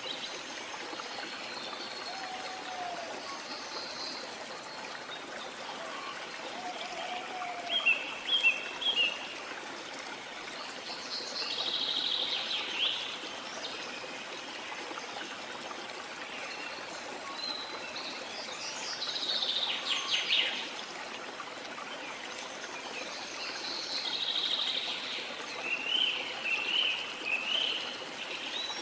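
Steady rush of running water, with birds calling and singing over it in short phrases every few seconds, the loudest a cluster of quick chirps about eight seconds in.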